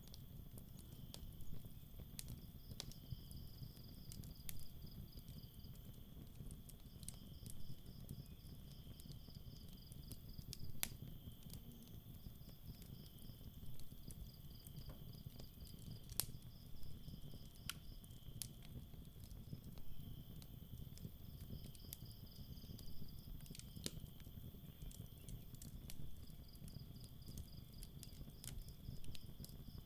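Campfire crackling with scattered sharp pops over a chorus of night insects. One steady high buzz runs underneath, and short pulsed chirping trills come back every few seconds. A low rumble sits beneath it all.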